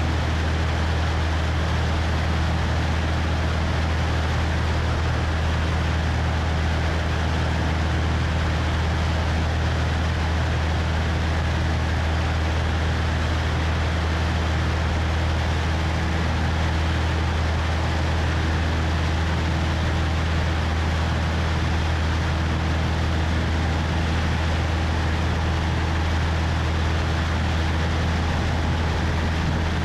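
Cessna 172's piston engine and propeller droning steadily in flight, with wind rushing past a microphone out on the wing.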